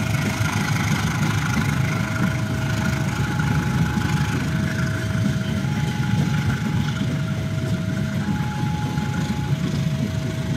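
Steady low diesel rumble of a long-distance passenger train at a station. A faint two-note electronic tone alternates between a low and a high note about once a second behind it.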